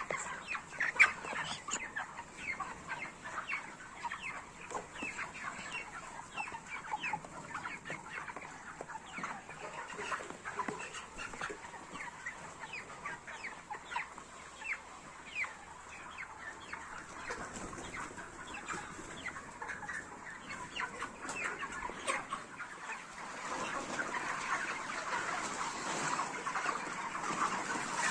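A large flock of broiler chickens, about 40 days old, clucking and calling in many short overlapping calls, growing into a denser, louder chorus near the end.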